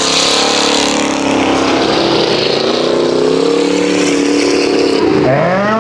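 Several 8-cylinder stock car engines running hard around the track, their pitch rising and falling as they accelerate and ease off. About five seconds in, one engine revs up sharply.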